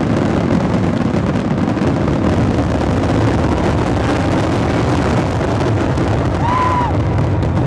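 Fireworks finale: a dense barrage of aerial shell bursts and crackle, merging into an unbroken rumble with no gaps between the reports.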